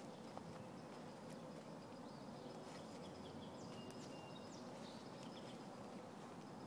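Faint distant bird calls, thin high whistles and short chirps, over steady low background noise.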